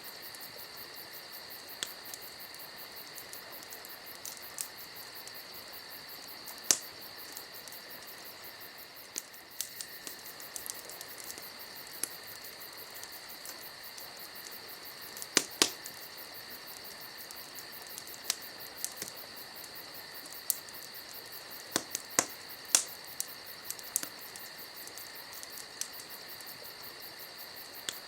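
Campfire crackling with sharp, irregular pops and snaps, a few louder ones in the middle and later on, over crickets chirping steadily.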